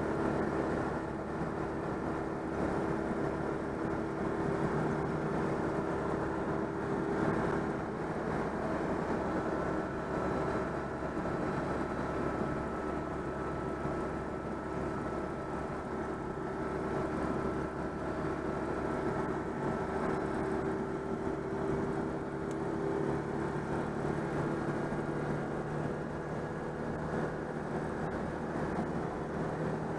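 Citroën 2CV's air-cooled flat-twin engine, freshly overhauled, running steadily under way, its pitch shifting a little now and then, with road noise underneath.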